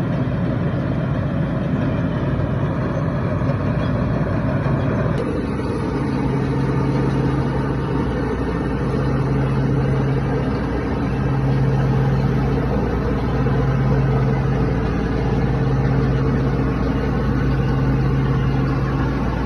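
Rice harvesting machine's engine running steadily, with a low hum that swells and eases every second or two. The sound changes abruptly about five seconds in.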